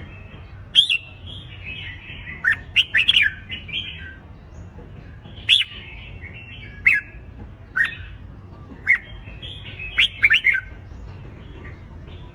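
Red-whiskered bulbuls singing in contest: short, loud, sharp phrases about once a second, with a cluster of quick notes near the start and another near the end, over softer chattering from other bulbuls.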